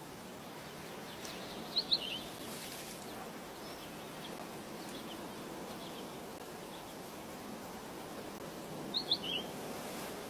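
Outdoor wildlife ambience: a steady background hiss with a small bird's short, high chirps in quick groups of three or four, about two seconds in and again near the end.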